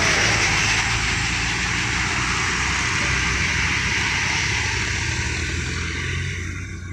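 Heavy diesel vehicle passing close on an uphill grade: a steady engine rumble with loud running noise that fades away near the end.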